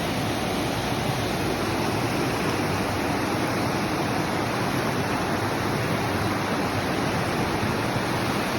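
River water rushing steadily: a constant, even wash of flowing water with no breaks.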